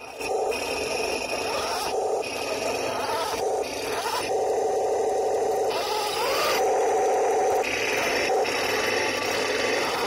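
1:16-scale RC M26 Pershing tank running on metal tracks: a continuous rattling, scraping mechanical noise that shifts in tone every second or two.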